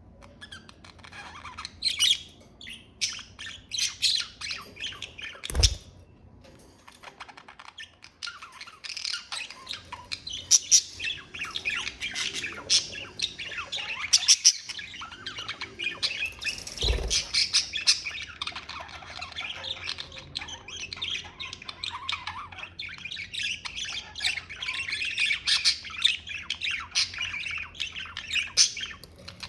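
Budgerigars chirping and warbling in a busy, continuous chatter. Two dull thumps come through, about 6 and 17 seconds in.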